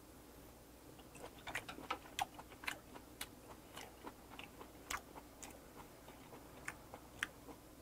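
A mouthful of soy-braised sea hare being chewed: faint, irregular small wet clicks and smacks of the mouth, several a second at times.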